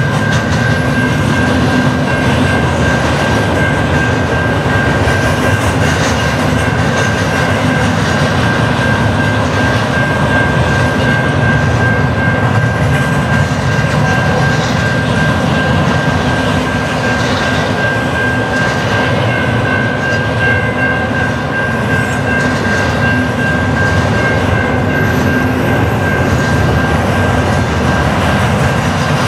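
CN double-stack intermodal freight train rolling steadily past, its container cars making a continuous rumble of wheels on rail with a faint clickety-clack over the joints. A steady high-pitched tone sounds over the rumble.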